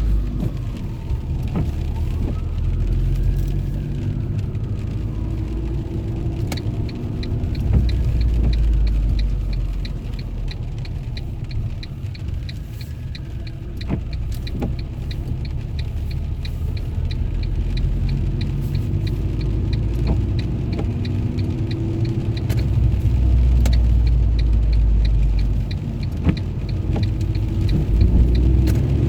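Car running with a steady low engine and road rumble. About a quarter of the way in, a regular fast ticking starts and keeps going, and a faint tone rises and falls every few seconds in the first half.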